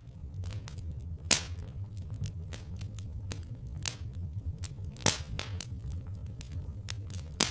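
Wood fire crackling: irregular sharp pops and snaps, two louder ones about a second in and about five seconds in, over a steady low rumble.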